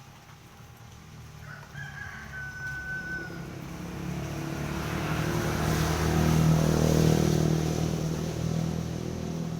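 A rooster crows faintly about two seconds in. Then a motor vehicle passes: its engine and tyre noise grow louder to a peak around two-thirds of the way through, then ease off.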